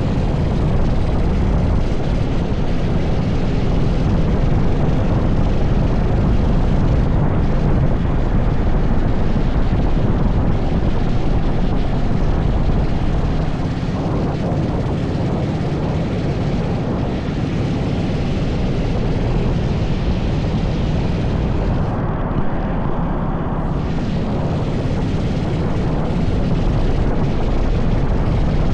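80cc go-kart engine running under way, heard onboard with wind and rushing noise over the microphone; the top end dips briefly about three-quarters of the way through.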